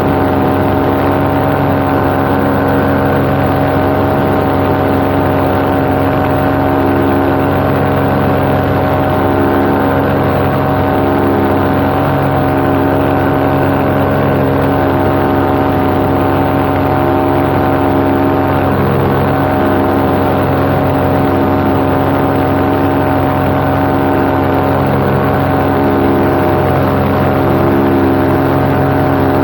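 Paramotor engine and propeller running steadily at cruise power in flight: a constant, loud drone that holds one pitch.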